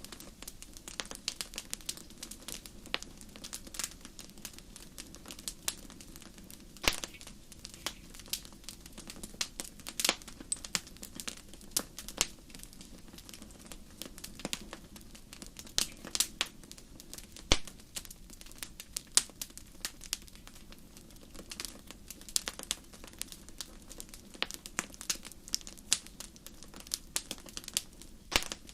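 Wood fire crackling: irregular sharp pops and snaps over a low, steady hum.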